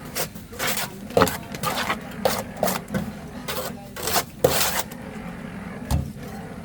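A run of irregular scraping and knocking strokes, about a dozen in five seconds, over a steady low hum.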